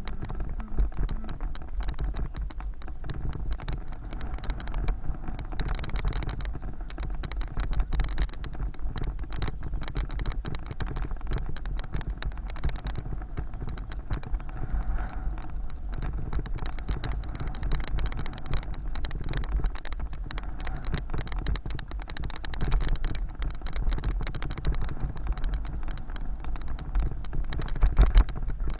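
A bicycle rolling along city streets: a steady run of fast rattling and clicking from the bike over the road surface, with a low wind rumble on the microphone.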